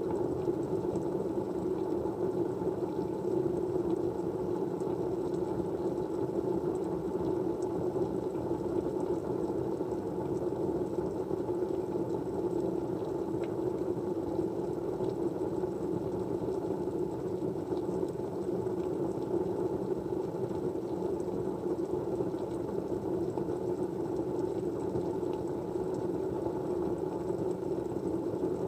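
Steady white-noise background: an even, unchanging rush weighted to the low-middle range, with nothing standing out.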